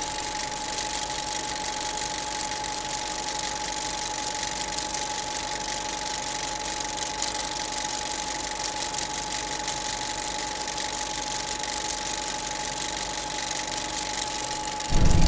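Steady jet airliner noise: an even, unbroken hiss with a single steady whine through it. Music with a heavy bass cuts in right at the end.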